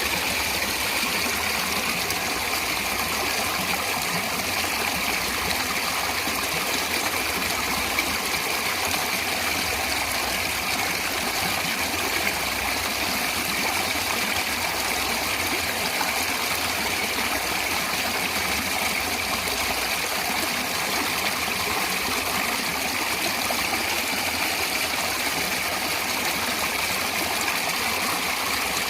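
Steady rush of a stream of flowing water, an even hiss strongest in the upper middle with no pauses or changes.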